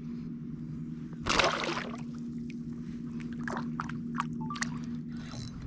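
Water splashing and sloshing around a kayak, with one louder splash about a second in and a few small splashes and drips later, over a steady low hum.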